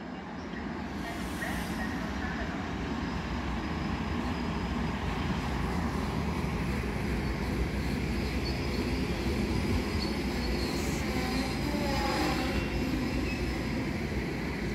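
Metro-North commuter train, cab car leading, rolling along the platform: a steady rumble of wheels on rail that grows louder, with a faint high squeal for a few seconds near the middle.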